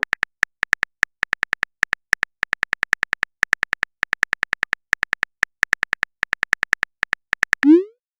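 Rapid, uneven run of short tapping clicks from a phone keyboard's typing sound effect, several a second. Near the end comes a quick rising blip, like a message being sent.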